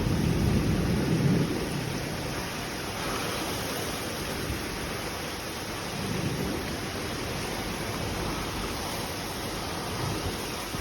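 Rain falling in a windstorm: a steady rushing noise, with a heavy low rumble of wind that eases after the first second or two.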